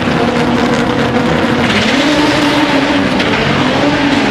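Turbocharged Honda Civic drag car accelerating hard down the quarter-mile, its engine note climbing, dropping at a gear change about three seconds in, then climbing again.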